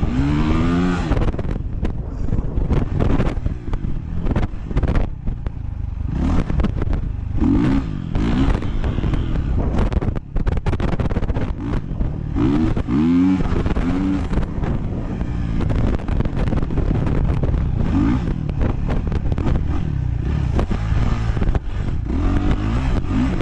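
Honda CRF450R dirt bike's single-cylinder four-stroke engine ridden hard, the revs climbing again and again in rising sweeps with drops between them, as on the throttle and through gear changes.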